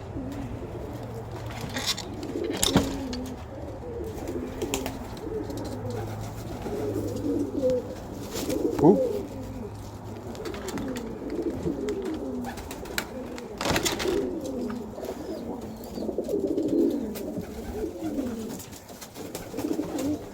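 Several domestic pigeons cooing, low overlapping coos that run on without a break, with a few sharp knocks, the loudest about nine seconds in.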